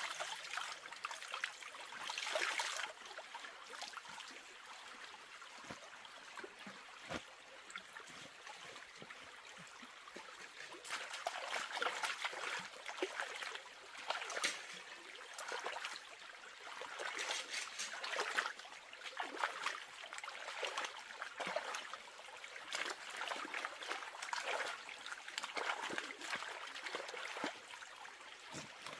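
Water trickling and splashing, coming in irregular louder surges with small knocks among them.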